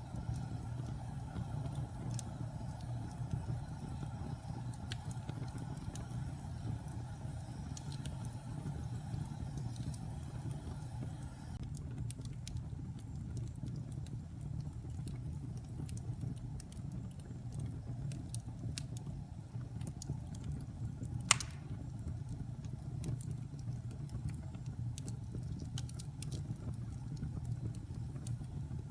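Fire burning in a fireplace: a steady low rumble of flames with scattered small crackles, and one sharper, louder pop about twenty seconds in.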